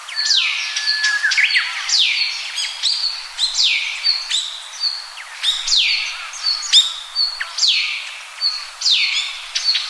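Birds calling: a repeated high call that sweeps downward, about once a second, with short high chirps between the calls.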